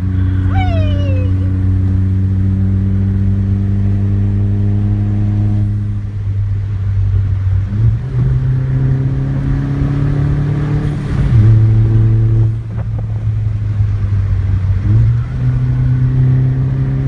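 Chevrolet Sonic's turbocharged 1.4-litre four-cylinder engine pulling under way, with a steady low engine note that shifts in pitch several times as the car accelerates and changes gear.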